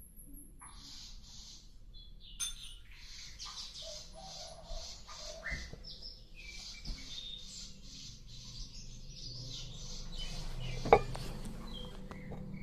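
A sikatan londo flycatcher singing: long runs of rapid high chirps mixed with short whistled notes. A single sharp knock near the end is the loudest sound.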